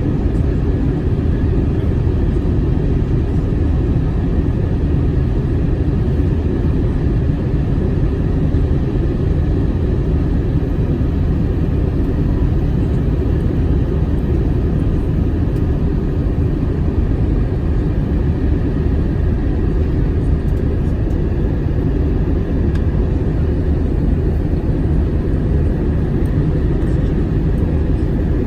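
Airplane in flight: a steady, even rumble of engines and rushing air, mostly low in pitch, with no change in level.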